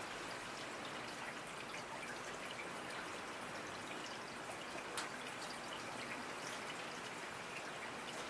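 Steady rainfall: an even hiss of rain with many individual drops ticking through it, one sharper drop standing out about five seconds in.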